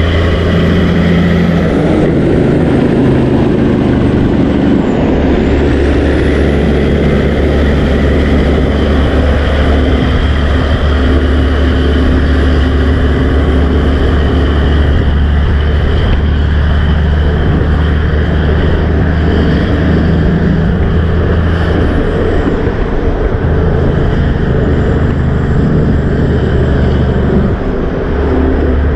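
Steady motor-vehicle road noise, engines running and tyres on a road, with no break.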